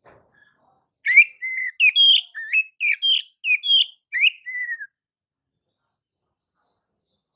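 Oriental magpie-robin (kacer) singing one phrase of about a dozen clear, quick whistled notes rising and falling in pitch, lasting about four seconds before it stops.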